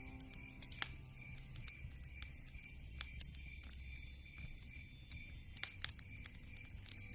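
Campfire crackling, with sharp pops scattered irregularly through it, over a high chirp that pulses a few times a second.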